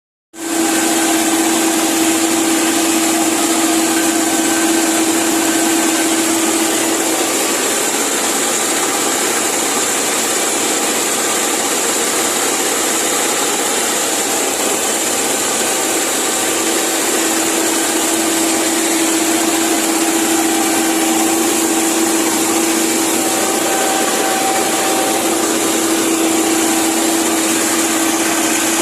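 New Holland tractor engine running steadily, with a constant high hiss over a droning hum.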